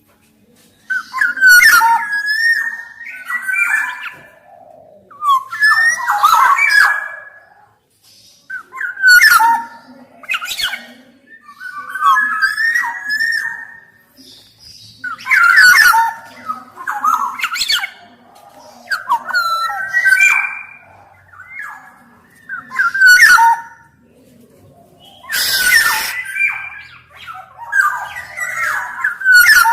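Black-naped oriole (kepodang) singing: about ten short phrases of fluty, gliding whistles mixed with harsher notes, one every two to three seconds.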